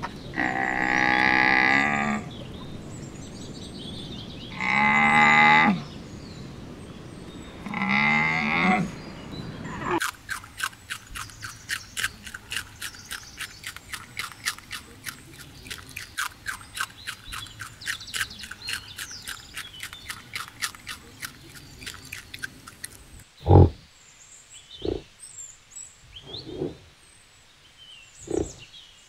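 Three long, drawn-out camel calls, one after another. Then a rabbit chewing: a fast, even clicking, about five clicks a second, for some thirteen seconds. Near the end, four short, low bison grunts, a second or two apart.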